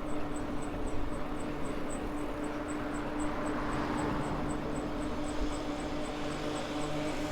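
Maxtron Mule folding e-bike under way: a steady whine from its electric motor over tyre and wind noise, with a faint, even ticking about four times a second.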